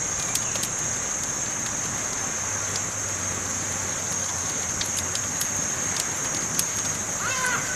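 Campfire burning: a steady hiss with scattered sharp crackles and pops from the burning wood. Near the end a crow caws a couple of times.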